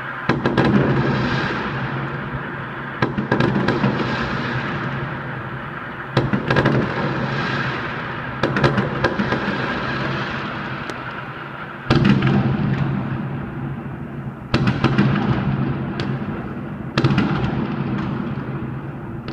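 Fireworks going off in repeated volleys, a new loud burst about every two to three seconds, each dying away slowly before the next.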